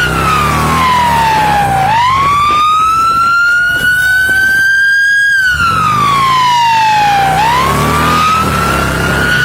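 Police siren on its wail setting, its pitch sliding down and back up in slow cycles of about five seconds, with a vehicle engine running low underneath.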